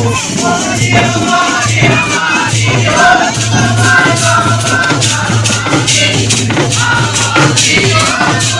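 A desi Holi folk song sung in Hindi over rattling, jingling hand percussion that keeps a steady beat.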